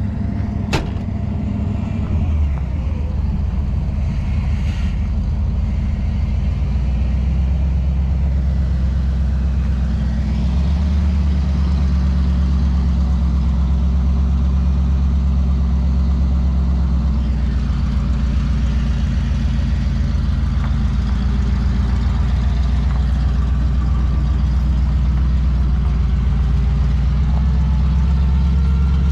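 A truck's engine running steadily, its note shifting a few times as the load or speed changes.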